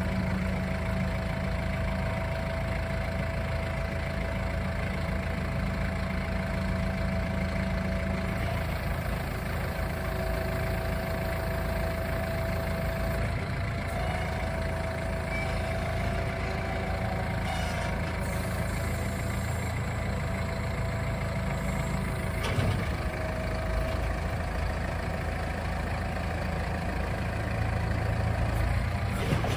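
Kubota M6-131 tractor's diesel engine idling steadily, with one brief knock about three-quarters of the way through.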